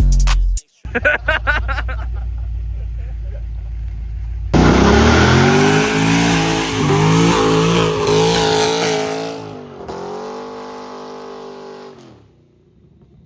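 Dirt bike engine revving up and down, loud from about four seconds in, then holding a steadier note that fades away near the end. A low rumble comes before it, and the tail of a music track cuts off at the very start.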